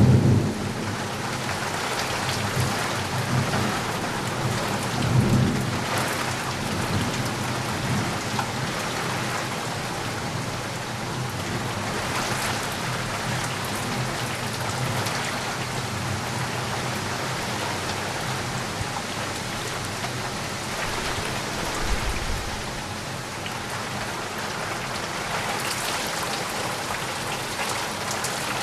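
Steady rainfall with low rolls of thunder, the rumble strongest at the start and again about five seconds in, and a brief low thud of thunder about three-quarters of the way through.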